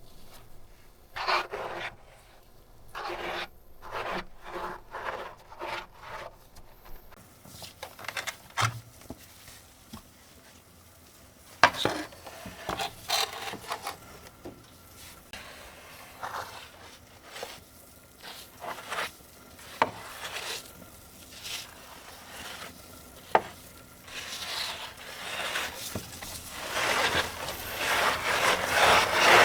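A dirty keyboard being rubbed and scrubbed during cleaning. It starts with separate strokes about once or twice a second, has a few sharp clicks in the middle, and ends with faster, louder continuous scrubbing.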